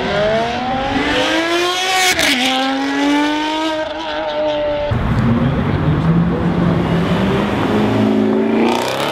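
High-performance car engines revving hard as cars accelerate past. A Lamborghini Huracán's engine climbs through the revs, drops at an upshift about two seconds in and climbs again. After a cut about five seconds in, a deeper engine note comes from a Camaro ZL1 1LE's V8 and rises again near the end.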